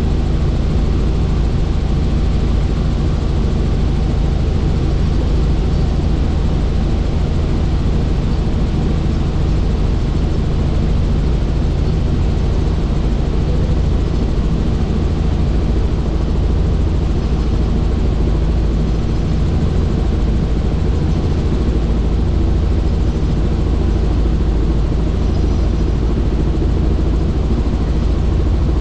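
Helicopter in flight, its rotor and engine running steadily and loudly with an even, unchanging drone.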